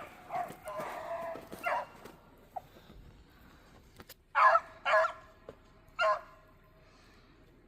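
Beagles barking on the trail: a quick string of barks in the first couple of seconds, then three loud single barks about halfway through, the last one drawn out briefly.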